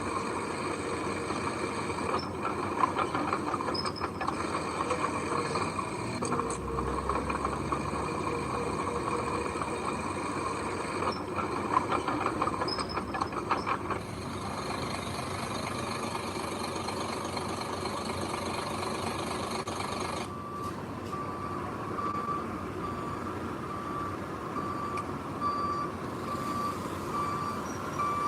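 Heavy earthmoving machinery running with scattered metallic clanks, then, about two-thirds of the way through, a reversing alarm starting a steady run of evenly spaced beeps at one pitch over the engine noise.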